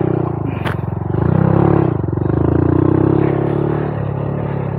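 Honda Monkey 125's single-cylinder four-stroke engine running under the rider, its revs rising and falling twice as it picks its way along a muddy trail. A short sharp click comes under a second in.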